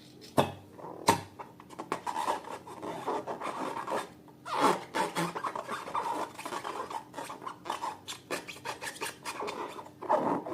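Slime being worked by hand: irregular sticky crackling and small clicks, with two sharp clicks in the first second and a louder burst a little under halfway through.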